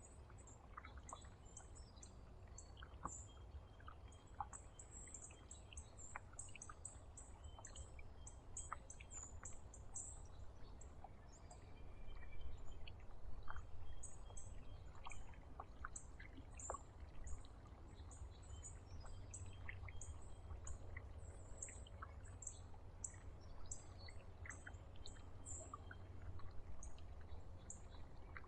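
Small birds chirping with many thin, high, short calls in quick succession, over a steady low rumble of outdoor background noise.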